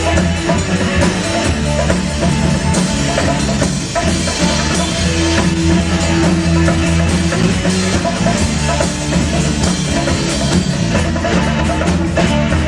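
Rock band playing an instrumental passage: drum kit, bass and electric guitar.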